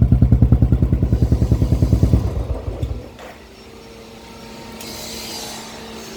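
Royal Enfield Classic 350's single-cylinder engine idling through a peashooter exhaust with an even thump of about eight beats a second. The beats slow and the engine stops about three seconds in, leaving a much quieter background with a brief hiss near the end.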